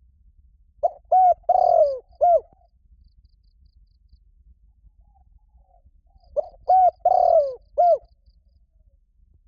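Spotted dove cooing: two phrases of four coos each, the third note long and falling in pitch, several seconds apart.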